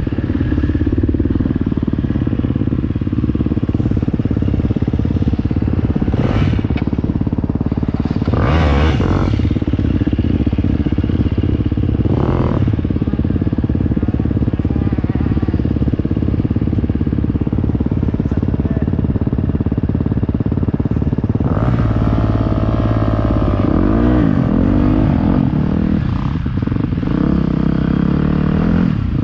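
Motocross dirt bike engine running hard around a track, held at high revs with a few brief louder rushes in the first half. Later the revs swing up and down repeatedly as the rider opens and shuts the throttle.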